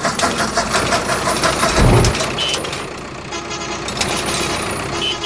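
Cartoon vehicle sound effects: engines running with horn toots, and a short low thud about two seconds in.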